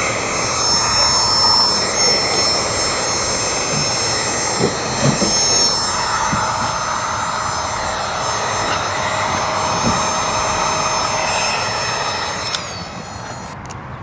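Handheld electric heat gun running steadily with a high whine, used to heat the vinyl during a chrome delete. About twelve and a half seconds in it is switched off and its fan whine winds down.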